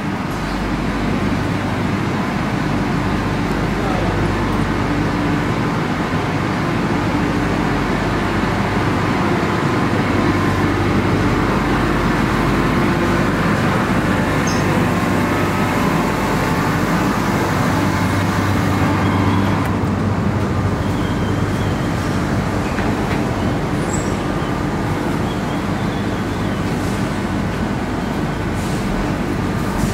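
Steady low hum and running noise from a double-deck electric commuter train standing at the platform, with a few faint clicks near the end.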